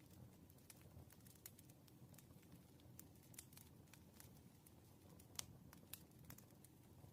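Wood fire crackling faintly: irregular snaps and pops over a low steady rumble, with one sharper pop about five seconds in.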